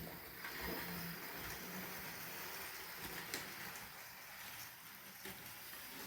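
Trix HO-scale model locomotive running on its track: a faint, steady whir with a few light clicks.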